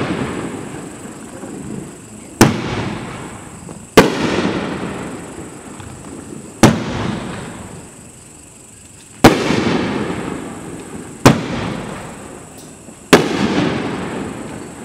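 Mad OX Legendary 3-inch fireworks rack firing its aerial shells: six sharp bangs about two seconds apart, each fading away before the next.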